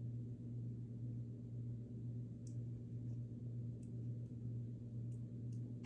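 A steady low hum with a few faint ticks scattered through it, and one short sharp click at the very end.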